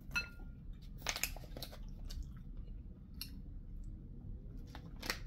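A person chewing and eating close to the microphone, with scattered sharp clicking mouth and utensil sounds; the loudest clicks come about a second in and again near the end.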